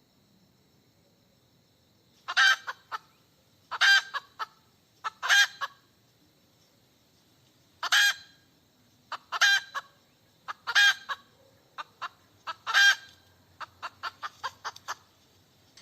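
Hen cackling: about seven loud, drawn-out squawks, each followed by a short cluck or two, then a quick run of short clucks near the end.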